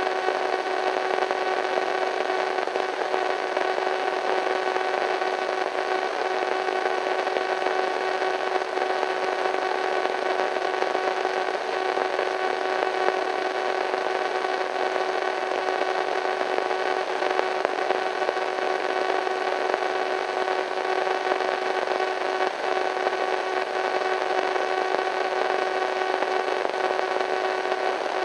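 Radio static: a steady hiss of white noise with several steady tones held under it, unchanging throughout.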